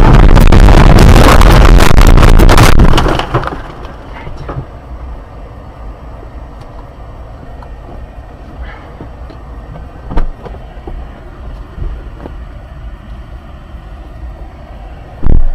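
Dash-cam audio of a car: very loud, distorted noise for about the first three seconds, then a steadier, quieter vehicle noise broken by a few sharp knocks.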